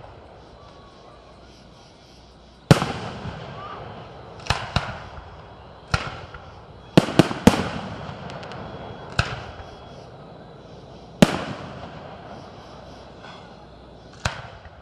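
Aerial fireworks bursting overhead: about ten sharp bangs at uneven intervals, each trailing off in a short rumbling echo, with a quick cluster of three about halfway through.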